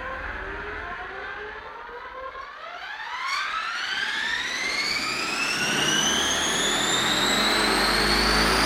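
Helicopter spooling up: a whine rises steadily in pitch and grows louder from about two and a half seconds in, with a rushing rotor noise building beneath it.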